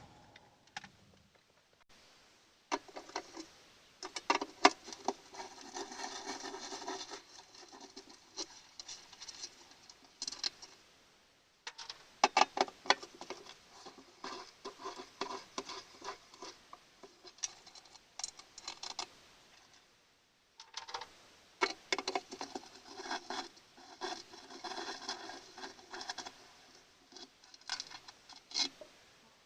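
Irregular clinks, taps and scrapes of metal parts and hand tools being handled, in three spells with short silences between them, as the air filter housing is taken off the VAZ-2106's carburetor.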